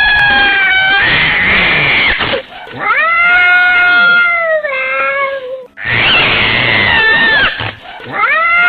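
Domestic cat meowing in long, drawn-out calls, each about two to three seconds, rising in pitch and then falling, with rougher, rasping calls between them.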